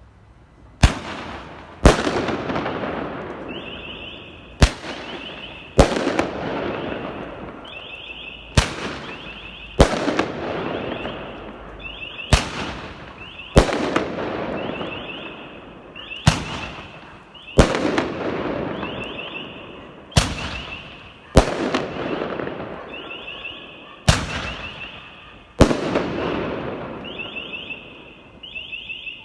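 Fireworks going off in pairs of sharp bangs about a second apart, seven pairs roughly every four seconds, each followed by a fading crackle and rumble. Between the bangs a high warbling car alarm sounds.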